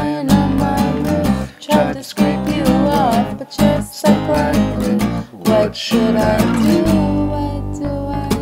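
Strummed acoustic guitar in an indie song, with a melody line above it that bends in pitch.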